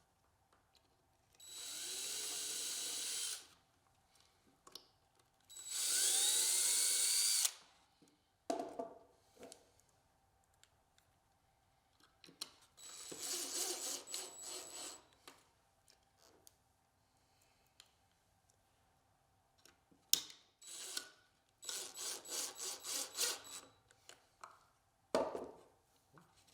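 Cordless drill driving wood screws in several short runs, one spinning up with a rising whine, then a string of quick stop-start trigger pulses; a single knock near the end.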